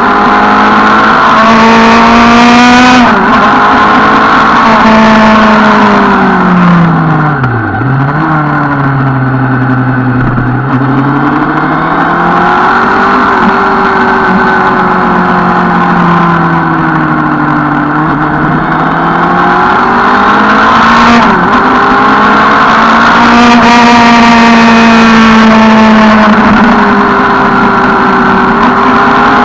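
Suzuki Bandit 650 N's inline-four engine running under way, its pitch rising and falling several times as the throttle opens and closes, dropping low about eight seconds in and climbing again.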